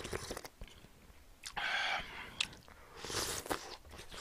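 Close-up eating sounds: a mouthful of soft tofu and stew broth being chewed, with small wet mouth clicks and two short hissing sounds, about a second and a half in and again near three seconds.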